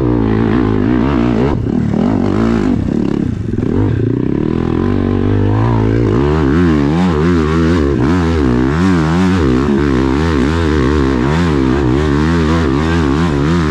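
Dirt bike engine running hard under load on a hill climb. About halfway through its pitch starts rising and falling quickly and repeatedly, about twice a second, as the revs swing.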